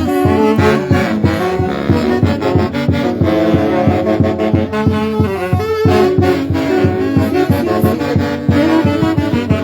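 Live music from a Huancayo orquesta: wind instruments such as saxophones carry sustained melody lines over a steady bass beat.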